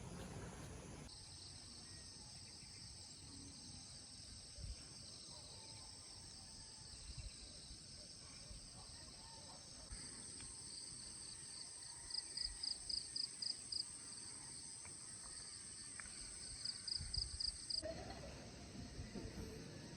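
Steady high-pitched chorus of insects, with a rapidly pulsed insect trill that comes in twice in the second half.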